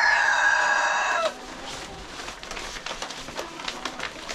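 Rooster crowing: the long held last note of the crow trails down and stops a little over a second in. Quieter clucking and small clicks follow.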